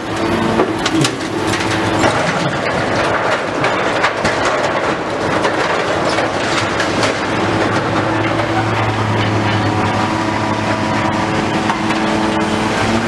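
Demolition of a factory building: an engine drones steadily while building material is crushed and broken up, with continuous crunching and clattering debris throughout.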